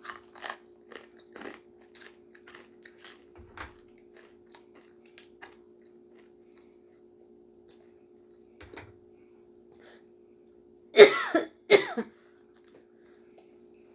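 A person biting and chewing crunchy crinkle-cut kettle potato chips, sharp crackles thickest in the first few seconds and thinning out, then two loud coughs about eleven seconds in, a reaction to the chips' strong spiciness. A faint steady hum runs underneath.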